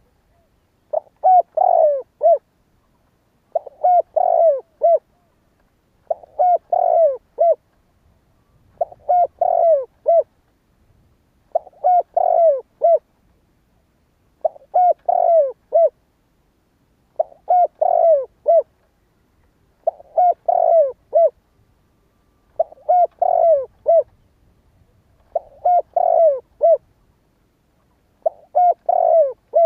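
Spotted dove cooing its song: a short phrase of three or four low, falling coos, repeated about every two and a half to three seconds with pauses between.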